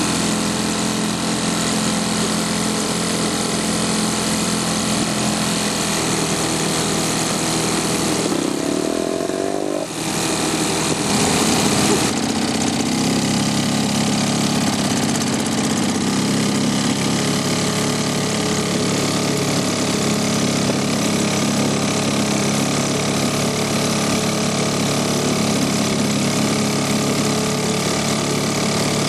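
British Seagull two-stroke outboard motor running steadily, with a brief dip and change in tone about ten seconds in.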